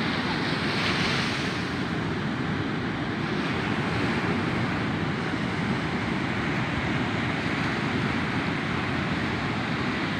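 Steady wind noise on the microphone mixed with the wash of sea surf.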